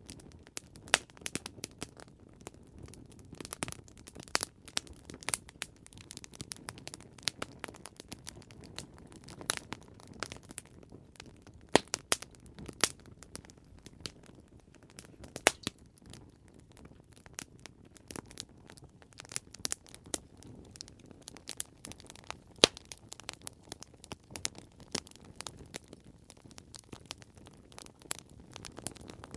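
Wood campfire burning and crackling, with irregular sharp pops and snaps over a low steady rumble of flame.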